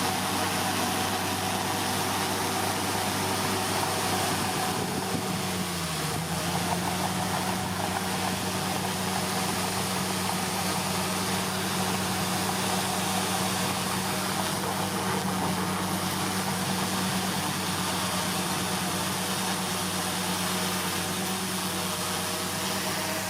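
Komatsu D41P bulldozer's diesel engine running steadily. About six seconds in its pitch rises as it revs up, holds at the higher speed, then falls away sharply at the very end.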